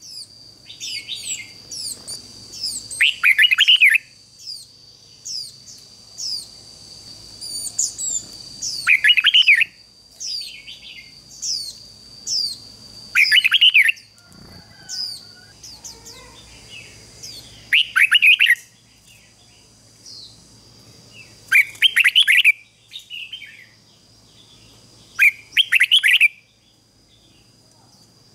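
Red-whiskered bulbul singing: loud warbled phrases about every four to five seconds, with quicker high chirps in between. A steady thin high tone runs underneath.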